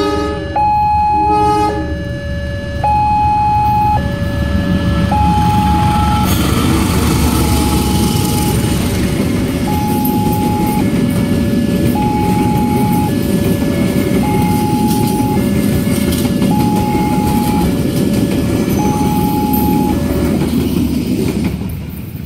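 A level-crossing warning loudspeaker sounds a two-tone high-low alarm, each tone about a second long. A passenger train sounds its horn in the first second or two, then rumbles over the crossing on its steel wheels and rails. The rumble fades near the end.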